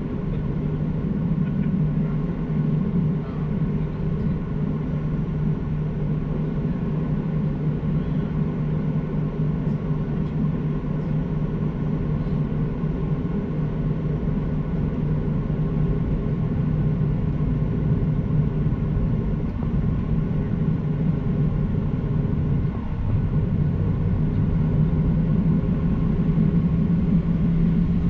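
Boeing 737-800 cabin noise: the CFM56 turbofans' steady drone, a strong low hum with fainter steady higher tones, dipping briefly near the end.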